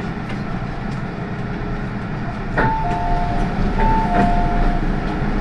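MTR M-Train electric multiple unit running with a steady low rumble. About two and a half seconds in, a two-note chime, a higher note then a lower one, sounds twice in a row over the train noise.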